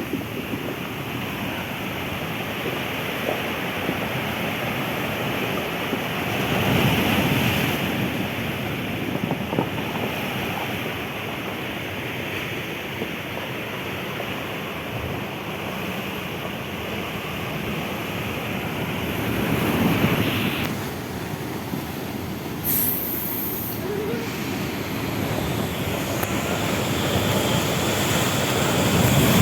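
Ocean surf: a steady wash of breaking waves that swells louder with bigger breakers about a quarter of the way in, about two-thirds of the way in, and near the end.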